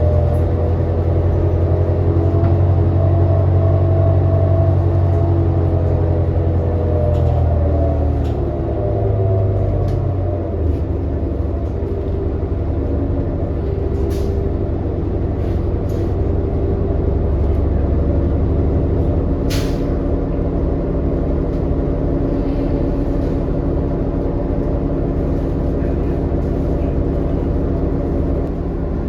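Diesel engine and drivetrain of a New Flyer XD40 city bus heard from inside the cabin while under way; the engine note drops about a third of the way in as the bus slows, then runs steadily. A brief sharp hiss comes about two-thirds of the way through.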